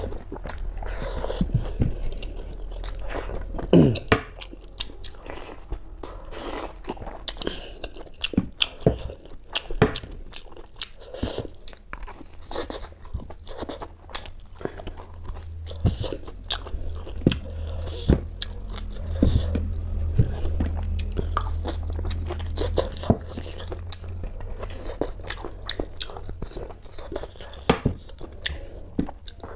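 A person chewing mutton and rice, with irregular wet smacks, crunches and clicks, over a steady low hum.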